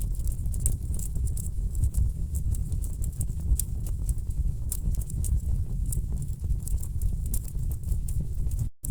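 Wood fire crackling in a fireplace: frequent sharp pops and snaps from the burning logs over a steady low rumble of the flames. The sound cuts out for a split second near the end.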